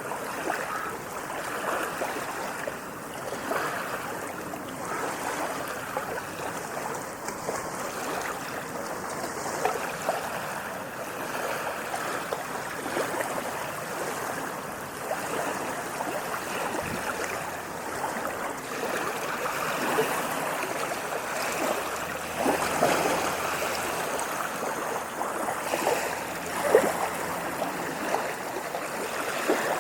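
Moving water splashing and gurgling steadily, with many small splashes and a slightly louder splash near the end.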